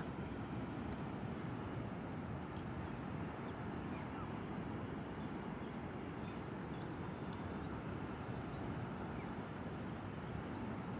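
Steady, even rush of ocean surf with a little wind, with no distinct events standing out.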